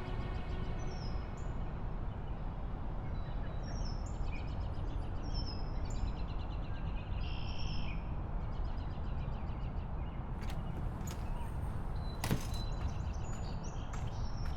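Outdoor ambience: a steady low background rumble with small birds chirping, and a few clicks and one sharp knock near the end.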